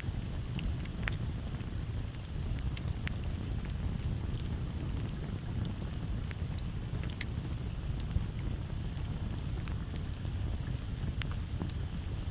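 Campfire crackling, with frequent irregular sharp pops over a low steady rumble, and crickets chirping steadily in the background.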